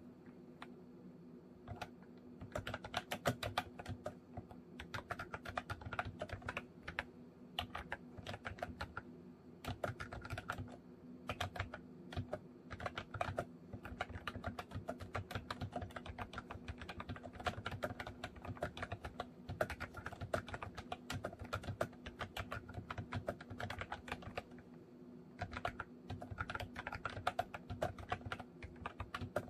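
Continuous typing on a MOFii Retro Style Candy keyboard: fast, steady runs of key clicks, with a short pause near the start and another about four-fifths of the way through.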